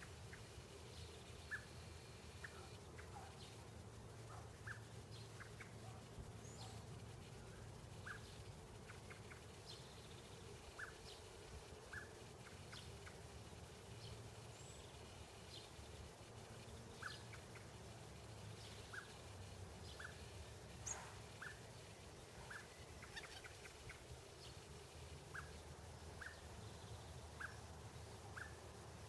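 Faint, short chirps from a bird, repeated every second or so, over a low steady hum.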